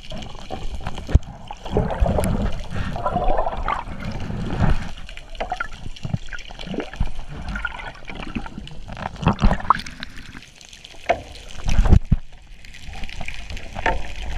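Seawater sloshing and bubbling around the camera, in irregular surges with low thumps and scattered knocks.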